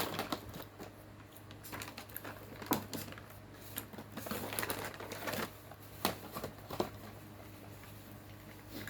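Plastic snack wrapper crinkling and rustling as it is handled and opened, with scattered sharp clicks, busiest about halfway through.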